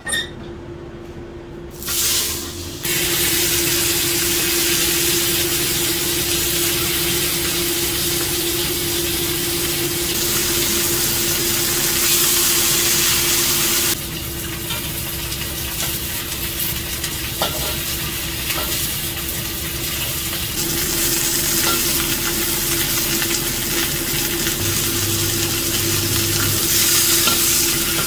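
Salted sea fish frying in hot oil in a carbon-steel wok on a gas burner. A loud, steady sizzle starts suddenly about three seconds in and keeps going, with occasional scrapes and clicks of a metal spatula against the wok. A steady hum runs underneath.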